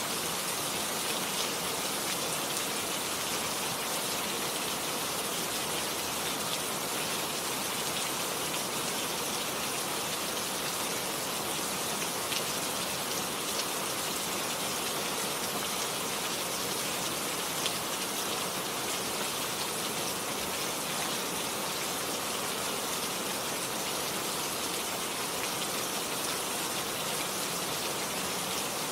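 Steady rain falling on garden plants, an even hiss flecked with the ticks of single drops.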